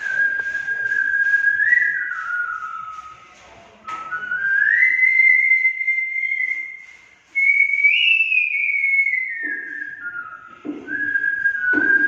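A man whistling a melody: one clear tone stepping between held notes, sliding up to a long note about four seconds in, reaching its highest note near eight seconds, then stepping back down.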